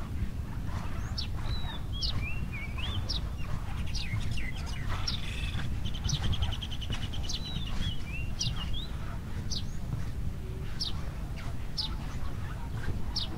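Several birds calling: short sharp chirps repeating roughly once a second, mixed with warbling phrases and a quick trill about five seconds in, over a steady low background rumble.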